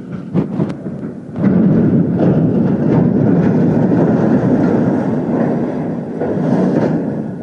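A 235-ton portal crane coming down: a few sharp knocks, then a loud, long rumble of heavy steel structure that starts about a second and a half in, lasts about five seconds and fades near the end.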